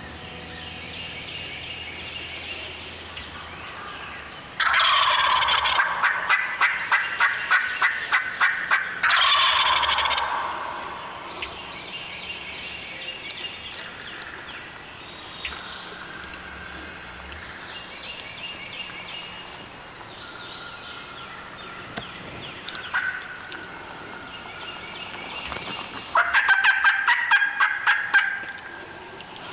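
Wild turkey gobblers gobbling close by: a long, loud run of rapid gobbles about five seconds in and another near the end, with fainter calls between. These are hot toms coming in to the hunter's calls.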